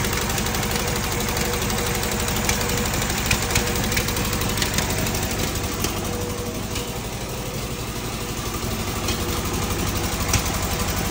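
Fiat 126p BIS two-cylinder engine idling roughly and unevenly, coughing, with irregular sharp pops every second or so. The popping is a sign of a poorly running engine just brought back to life; the owner suspects a badly fitted exhaust or the ignition.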